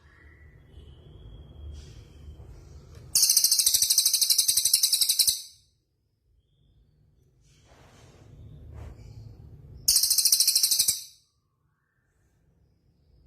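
Caged songbird song: two loud bursts of a very fast, high-pitched trill. The first starts about three seconds in and lasts about two seconds, and the second, about a second long, comes near ten seconds. A faint low hum swells before each burst.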